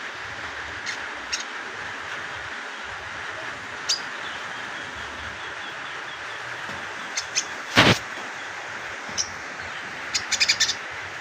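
Young crimson sunbird learning its song, giving short, high chirps: scattered at first, then a quick run of them near the end, over a steady hiss. A single sharp knock about eight seconds in is the loudest sound.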